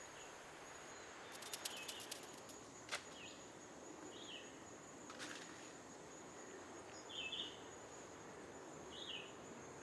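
Faint field ambience: a steady high-pitched insect trill, with about five short chirps and a few sharp clicks scattered through.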